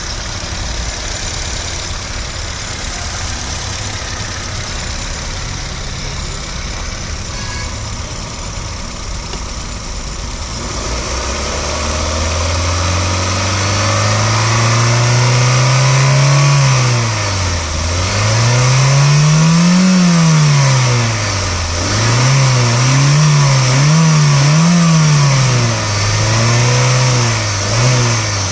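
Honda City ZX four-cylinder petrol engine idling steadily for about ten seconds, then revved by hand: a slow climb in pitch, a drop, a second higher rev, a quick run of three short blips, and a last rev held near the end.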